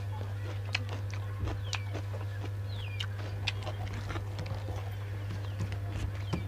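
Person eating a mukbang meal: soft chewing, lip smacks and scattered small clicks over a steady low hum, with a few short high chirps.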